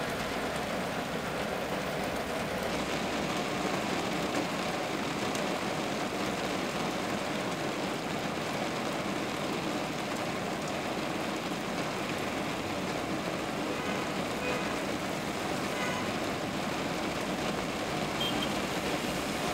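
Steady hiss of heavy rain mixed with traffic noise, heard from inside a vehicle.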